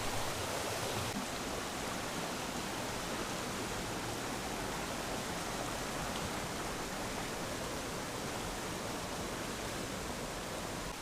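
Steady rushing of a rocky mountain river's water.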